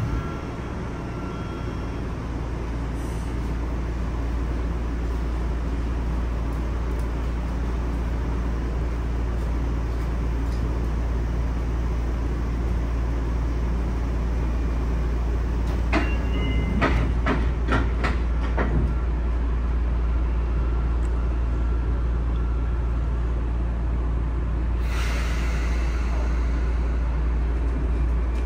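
Sotetsu 9000 series electric train running, heard inside the passenger car: a steady low rumble of wheels on the track, slowly getting louder. A quick run of wheel clacks comes about 16 to 19 seconds in, and a brief rush of hiss follows near the end.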